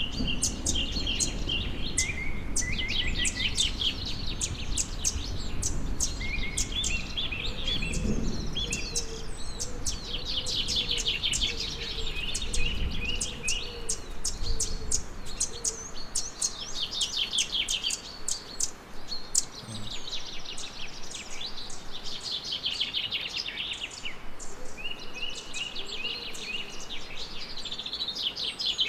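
Songbirds singing, phrases of rapid chirping notes repeated every few seconds. Under them runs a low rumble that fades away about halfway through.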